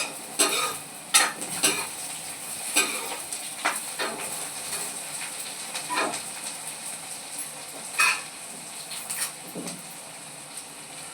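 Metal spatula stirring beans and potatoes in a pan, scraping and knocking against the metal at irregular intervals over a steady sizzle of frying. The knocks come less often in the second half.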